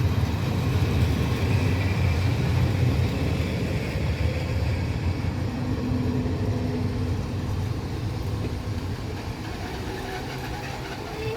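Passenger train of coaches behind an EP08 electric locomotive rolling past, a steady rumble of wheels on the rails that eases a little in the second half.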